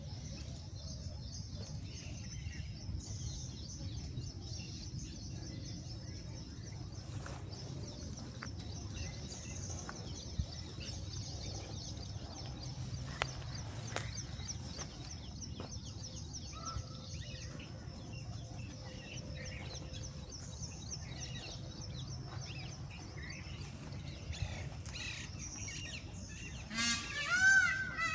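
Small birds chirping faintly over a steady low background rumble. Near the end, loud repeated calls from a larger bird break in and stand out above everything else.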